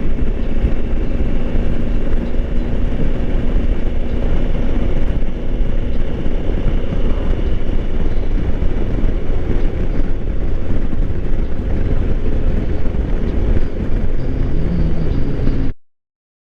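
Wind buffeting the microphone over the steady drone of a 2020 Honda Africa Twin's parallel-twin engine while riding at a constant pace. It cuts off suddenly near the end.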